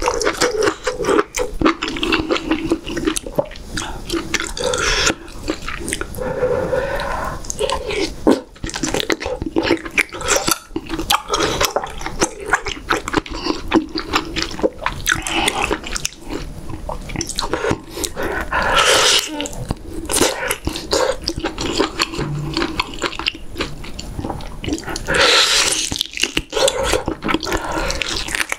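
Close-miked wet chewing and mouth sounds of eating braised beef short ribs and vegetables from a soybean-paste stew: many small clicks and smacks, with a few louder wet bursts. Near the end, teeth tear meat off a rib bone.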